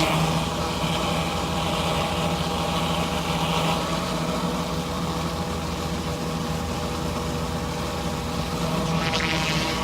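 Pressure washer engine running steadily under load, with the hiss of the surface cleaner's water spray swelling at the start, again a couple of seconds in, and near the end.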